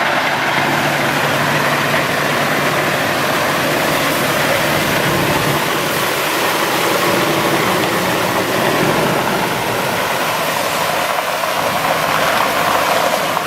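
Cummins ISC diesel engine of a Freightliner M2 water truck running steadily, an even mechanical drone.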